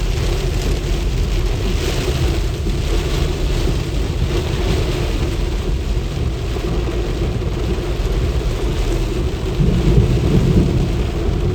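Heavy rainstorm noise with a dense low rumble and a steady hum underneath, swelling louder in the low end about ten seconds in.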